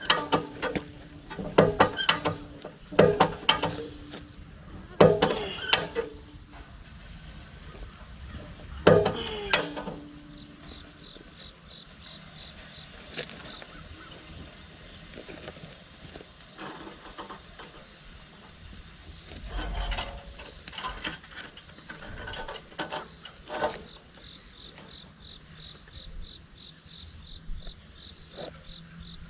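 About ten sharp strikes, mostly in pairs and threes, over the first ten seconds; some ring briefly after the blow. After them, insects chirp in a steady, fast, high pulse.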